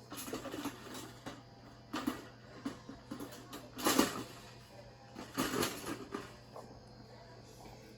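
Objects being handled: several short bursts of clattering and knocking, the loudest about four seconds in.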